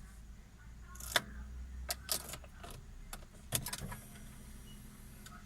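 A bunch of keys jangling and clicking in short bursts, about seven times over a few seconds, over a faint steady low hum.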